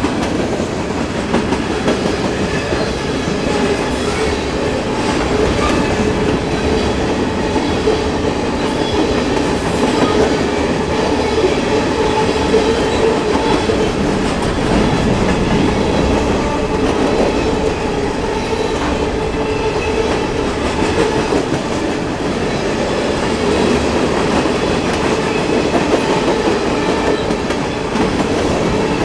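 Freight cars rolling past at speed: steel wheels rumbling and clacking over the rails, with a steady ringing tone running underneath.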